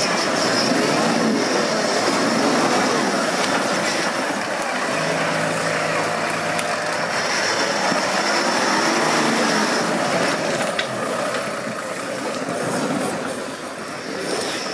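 Off-road 4x4 vehicle's engine revving up and down several times over a continuous rumble of the vehicle working.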